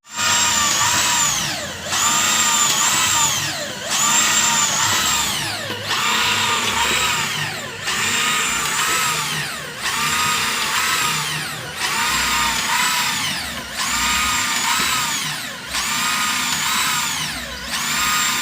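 A Maktec 13 mm electric drill drives a PCP air-rifle hand pump through a homemade crank drive, and its motor whine starts abruptly. The whine slows and drops in pitch about every two seconds as each pump stroke loads it, then speeds up again.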